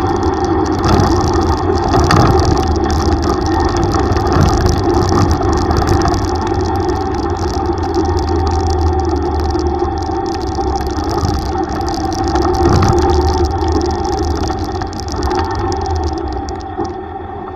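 Yamaha YTX125's single-cylinder four-stroke engine running steadily while riding, over a constant haze of road and wind noise.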